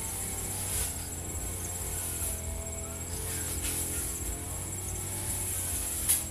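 Firman FGB 528 brush cutter's two-stroke engine running steadily with a high buzzing whine, its pitch wavering slightly, and a few short sharp ticks from the cutting head, the strongest just before the end.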